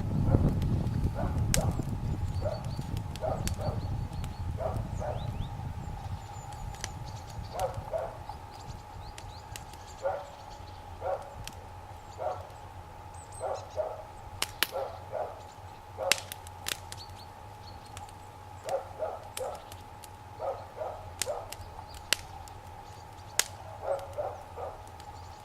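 Campfire of raspberry canes and boards burning, with sharp pops and crackles here and there and a low rumble that fades over the first few seconds. A dog barks repeatedly, often twice in quick succession.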